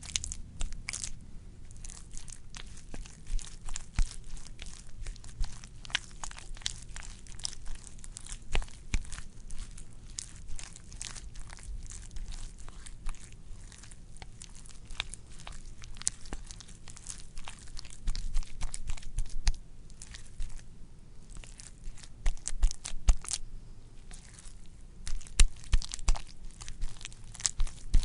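Wet, squishy squelching: a dense run of irregular crackles and pops with no steady rhythm, thickening into louder clusters about two-thirds of the way in and near the end.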